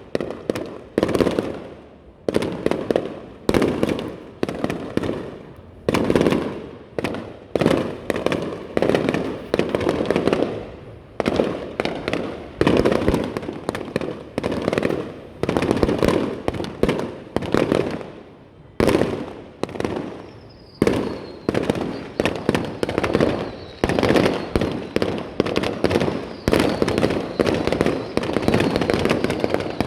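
Aerial fireworks bursting in quick succession, about one to two bangs a second, each dying away briefly. A faint falling whistle comes about two-thirds of the way through, and the bangs thicken into denser crackling near the end.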